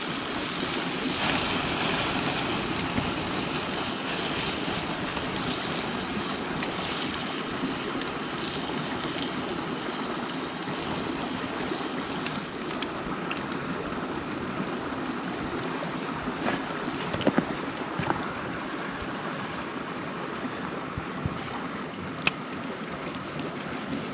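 Mountain stream rushing steadily, with a few brief sharp clicks or knocks about two-thirds of the way in and once more near the end.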